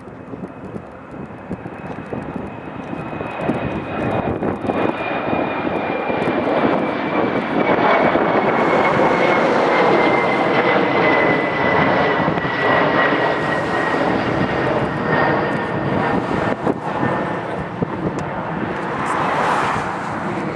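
An airplane's engines passing, building to a loud rush with a high whine that slowly falls in pitch as the aircraft goes by, then easing slightly near the end.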